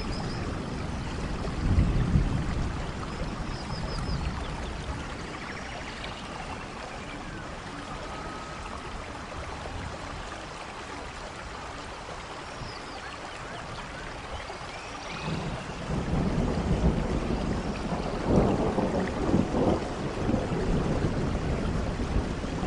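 Steady rainfall with rolling thunder. A low rumble swells about two seconds in, then eases. A longer, heavier rumble builds from about fifteen seconds on and keeps going.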